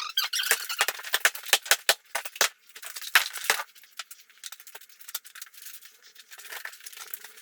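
Shower demolition: hard, brittle pieces being broken out and clattering, a rapid run of sharp clinks and knocks that thins out to sparser, quieter ticks after about three and a half seconds.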